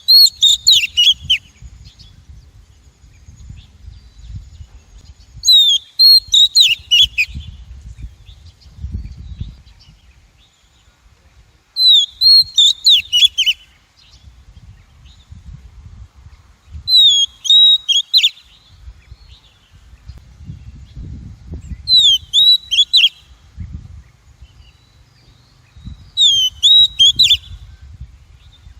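Female Oriental magpie-robin giving short whistled phrases of quick rising and falling notes, six times at about five-second intervals: a lure call used to draw wild magpie-robins.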